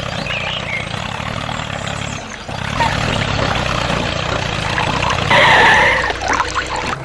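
A small motor running steadily with a low hum. It dips briefly about two and a half seconds in, and a louder burst of noise comes about five seconds in.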